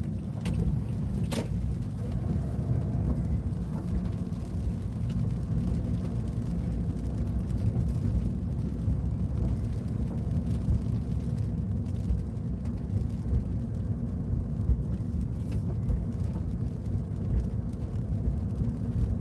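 Steady low rumble of a car, engine and road noise, while driving.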